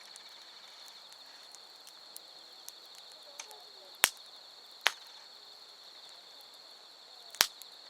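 Wood fire crackling, with sharp pops of burning firewood: loud ones about four and five seconds in and another near the end, and fainter snaps between. Underneath, insects keep up a steady, high, pulsing trill.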